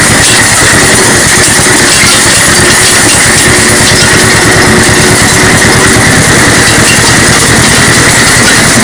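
A farm machine's engine running steadily, loud and close, with an even fast pulsing and a steady high whine over it.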